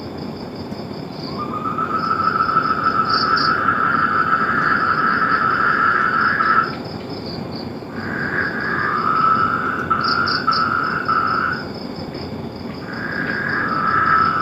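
Frogs calling: long, even trills of several seconds each, the first starting about a second in and two more overlapping later, over a steady higher-pitched chorus.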